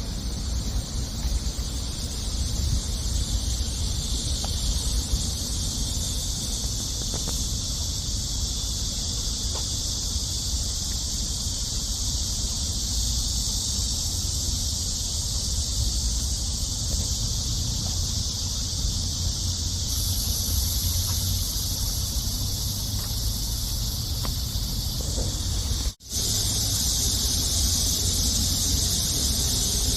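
A steady, high-pitched chorus of insects buzzing without a break, over a low rumble; near the end the sound drops out for an instant.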